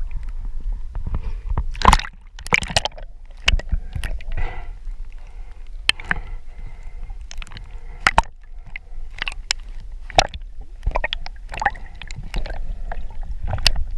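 Water sloshing and gurgling around a camera at the surface, with irregular sharp knocks and clicks and a steady low rumble throughout.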